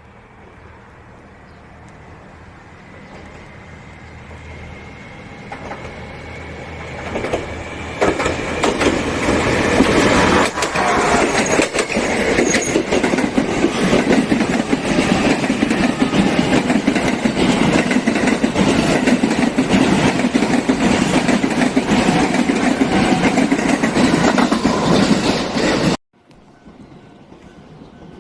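A train on the Jōban Line approaches and passes close by. It builds over about eight seconds from a distant hum, with a faint high ringing from the rails, to a loud, rapid clatter of wheels over the track. The sound cuts off suddenly near the end.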